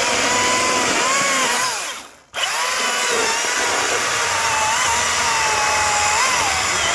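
ECHO DCS-2500T 56-volt battery chainsaw running, its electric motor whine wavering in pitch. About two seconds in it dies away, then starts again abruptly.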